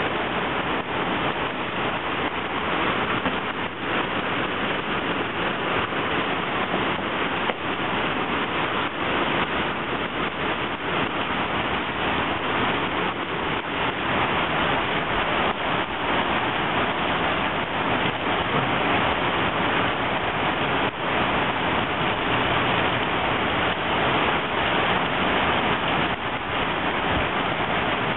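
Heavy rain pouring onto a flooded street and pavement, a steady even hiss of falling and splashing water.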